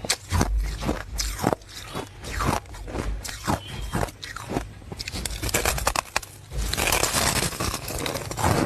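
Close-miked biting and chewing of hard ice cubes: a run of sharp, irregular crunches, then a denser spell of grinding crunch near the end as the ice is chewed up.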